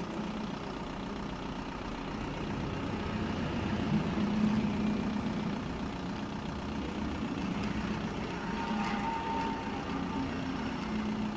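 A vehicle engine running steadily with a low hum, getting a little louder about four seconds in.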